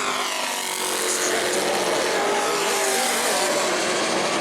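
Race trucks' engines running at speed on a short oval, a dense pack of engine notes with pitches sliding up and down as the trucks pass and get on and off the throttle.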